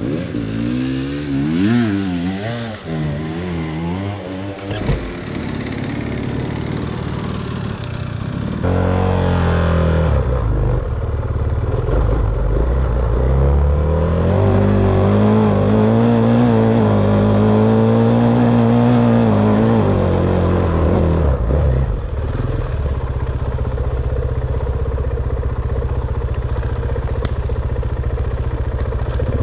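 Dirt bike engine revving, its pitch rising and falling quickly with the throttle for the first few seconds. About nine seconds in, it pulls harder and runs louder, then settles to a steadier pitch near the end.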